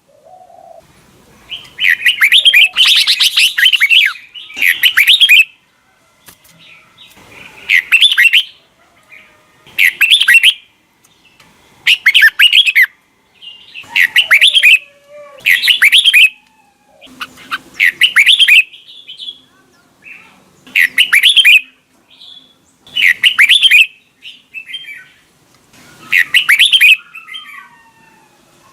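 Red-whiskered bulbul singing loud, short warbled phrases, about a dozen in a row, one roughly every two seconds, with faint softer chirps in the gaps.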